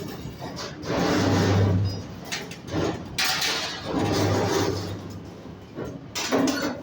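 Automatic CNC stirrup bending machine working steel reinforcing bar: two spells of motor hum with metallic noise as it feeds and bends the bar, each lasting over a second, about three seconds apart.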